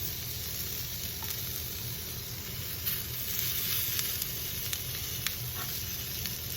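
Chicken strips, bell pepper and onion frying in a hot cast iron skillet with a steady sizzle, broken by a few short clicks from about halfway through.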